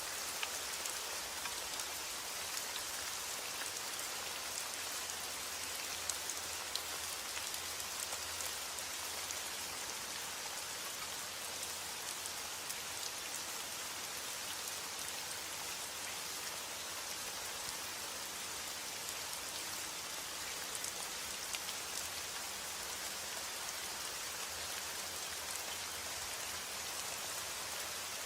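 Steady heavy rain falling on a roof: a constant hiss with individual drops ticking through it.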